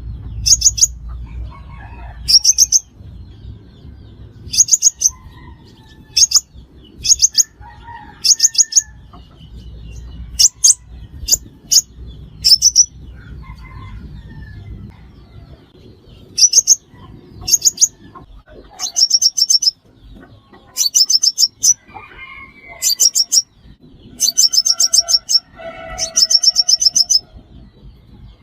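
Sunbird song: short, very high, rapid trills repeated every second or two, the trills running longer near the end.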